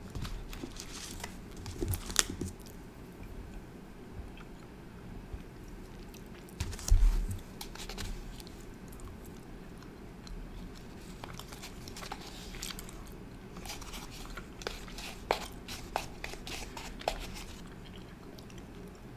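Close-up chewing of a soft, taffy-like sour dough candy, with scattered short mouth clicks and smacks. A louder low knock about seven seconds in.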